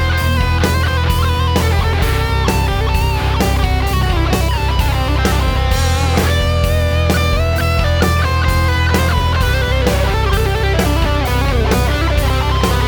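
Distorted electric guitar playing a fast lead solo through a gain pedal, over a backing track with drums and bass.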